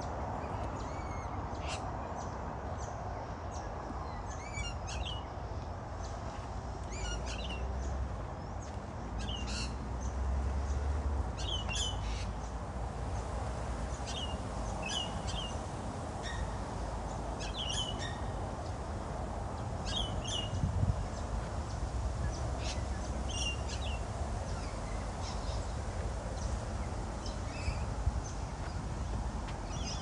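Birds calling: short, sharp high calls repeated every second or two, over a steady low background rumble.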